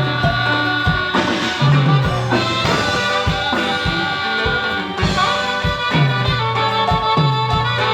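Live band playing instrumental music, with sustained melody lines over a steady drum beat of about two strokes a second.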